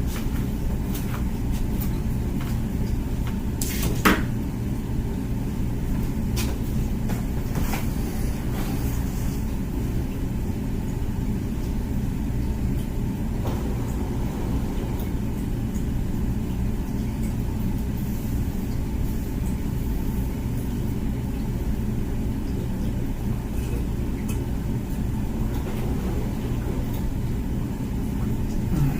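Comfee dishwasher running, a steady low hum and rumble from its pump and circulating water, with a sharp click about four seconds in and a few fainter ticks.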